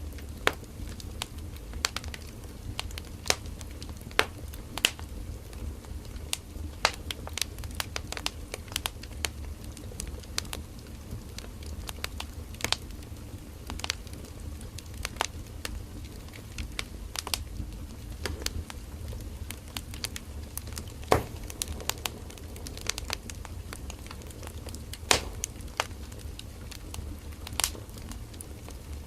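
Firewood burning in an open campfire: irregular sharp crackles and snaps, with a few louder pops, over a steady low rumble of the flames.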